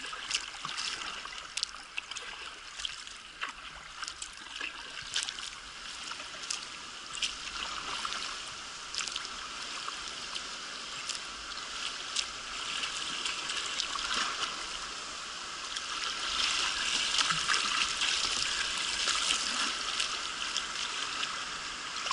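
Fast river water running over a rapid, with many short sharp splashes; the rush grows louder about two-thirds of the way through.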